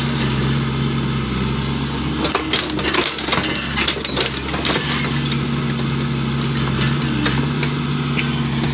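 Excavator's diesel engine running steadily, with a burst of knocks and clatter from the machine working in the ground between about two and five seconds in.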